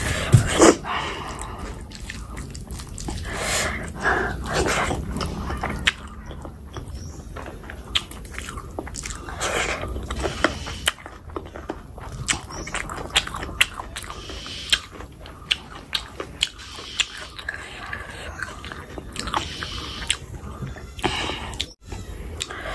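Close-miked chewing of a hand-fed mouthful of rice and oily chicken skin curry, with many short wet mouth clicks. The chewing is fuller and louder in the first few seconds, then settles into scattered clicks.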